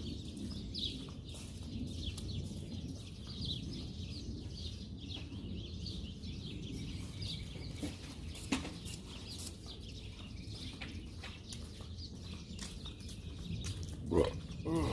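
Birds chirping outdoors, many short high chirps, over a low steady rumble, with a louder call near the end that sounds like a chicken's cluck. A single sharp knock comes about halfway through.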